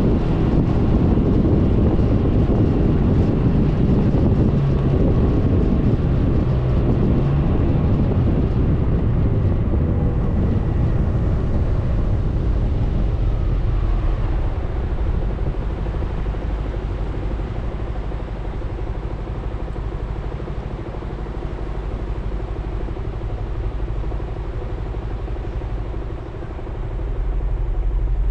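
Suzuki Burgman 400 scooter underway, its single-cylinder engine's drone mixed with road noise and wind rushing over the camera microphone. The noise eases through the second half, dips briefly near the end, then swells again.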